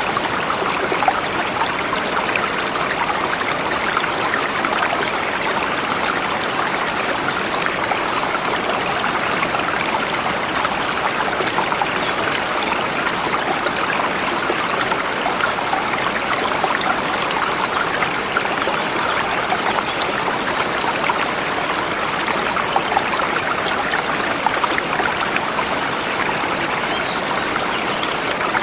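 Forest river flowing over rocks: a steady rushing and splashing of water with no pauses or changes.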